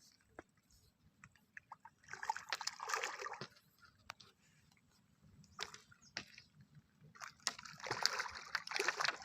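Water splashing and sloshing in two bursts, one about two seconds in and a longer one from about seven seconds on.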